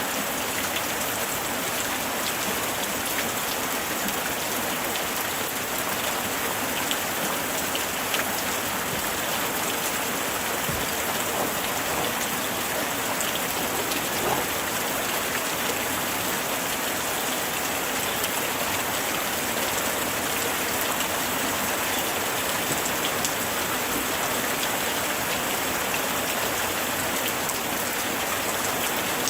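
Steady light rain falling, with many small raindrop ticks on surfaces over an even hiss.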